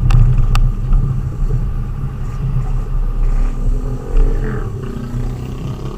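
Vehicle engine and road rumble while driving, a steady low drone, with a couple of sharp clicks in the first second.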